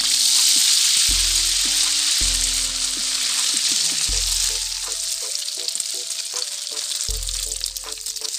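Beaten egg spooned into hot oil in an aluminium wok, sizzling loudly the moment it goes in, then slowly settling to a lower sizzle as it fries around skewered cilok balls.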